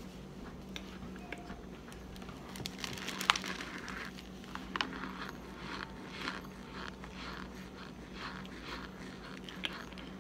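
Mouth chewing and biting packed cornstarch: soft crunching and crackling, with two sharper crunches about three and five seconds in.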